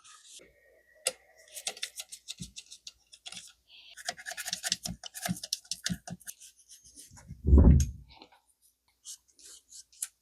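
Brass-bristle brush scrubbing grime off a typewriter's metal mechanism, a quick run of short scratchy strokes. A single dull thump about seven and a half seconds in.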